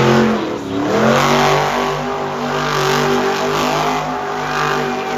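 Monster truck engine revving hard: its pitch climbs, dips about half a second in, then rises again and holds at high revs.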